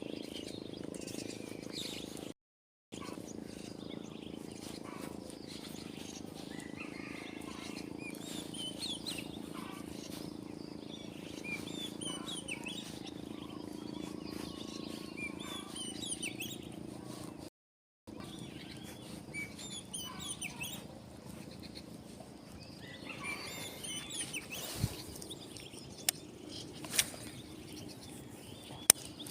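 Small birds chirping and twittering over a steady low background hum, with a few sharp clicks near the end.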